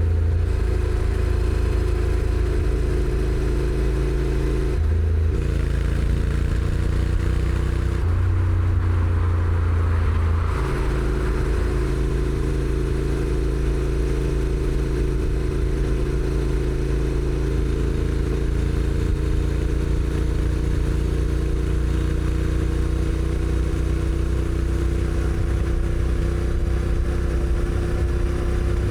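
Honda NC750X's parallel-twin engine running while riding, with wind and road noise. The engine note changes in steps about 5, 8 and 10 seconds in, like the dual-clutch gearbox shifting gears, then holds a steady cruise note that slowly rises.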